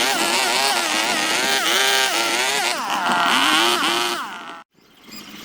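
A high-speed power carving tool whines steadily, its pitch sagging and recovering again and again as it bites into the wood, then stops abruptly near the end.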